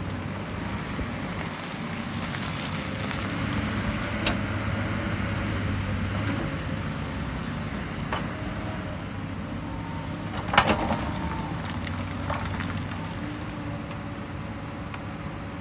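Hyundai excavator's diesel engine running steadily, with a few sharp knocks; the loudest comes about ten and a half seconds in.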